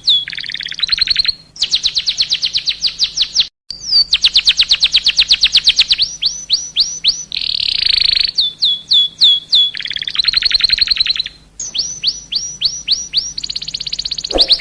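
A songbird singing: fast runs of repeated down-slurred whistled notes, about seven a second, alternating with buzzy rattling trills. The song breaks off for a moment about three and a half seconds in.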